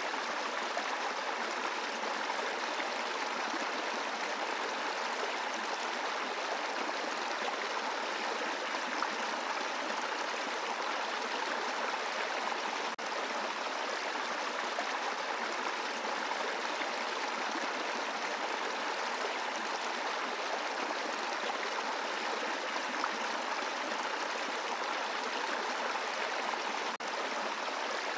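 Brook water rushing and gurgling over rocks in a steady, continuous stream, briefly dipping in level twice, about halfway through and near the end.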